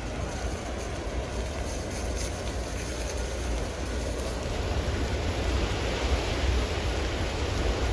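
Strong wind rushing steadily and buffeting the microphone with a deep rumble, swelling a little in the second half.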